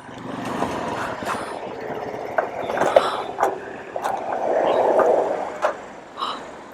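Traffic noise with a few sharp clicks and knocks; a vehicle swells past about four to five and a half seconds in.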